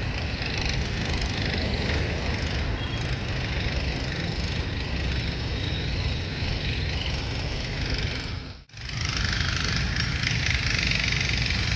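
Steady rumble of vehicle and road noise with no speech. It cuts out abruptly for an instant about nine seconds in, then resumes.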